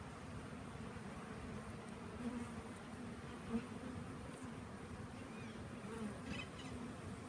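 A honeybee swarm buzzing: a steady drone of many bees at once, with a single bee passing close and briefly louder about three and a half seconds in.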